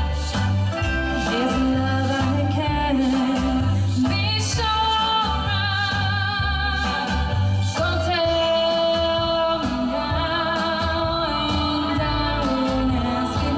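A female singer holding long notes with vibrato over an instrumental accompaniment with a steady bass line and beat.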